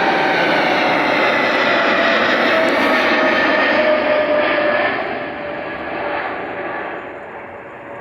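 Boeing 777's GE90 turbofan engines running at high power as the jet passes, a whine in the roar gliding down in pitch. The sound fades from about five seconds in as it moves away.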